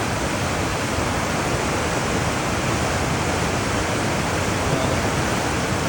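Whitewater rapid on a river running high, a steady rush of water pouring over a drop into a hole.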